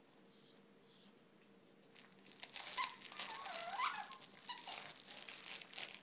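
Boston terrier puppy whining: a short high squeaky whine that dips and then rises, about three seconds in. It comes over crinkling and rustling that starts about two seconds in.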